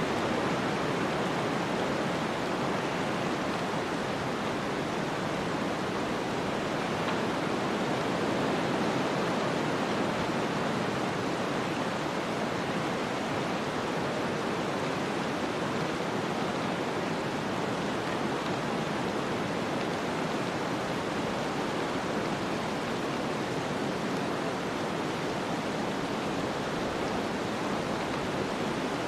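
Snowstorm ambience: a steady, even rush of wind noise with no gusts or separate sounds.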